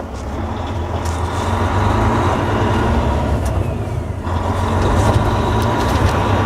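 Volvo D16 diesel engine of a heavy truck running on the road, heard from inside the cab. It drones steadily over road and tyre noise, getting louder over the first couple of seconds, with a few light knocks from bumps in the road.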